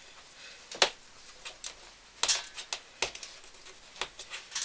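Scattered sharp clicks and taps of a graphics card's box and packaging being handled as its seal is peeled off and it is opened.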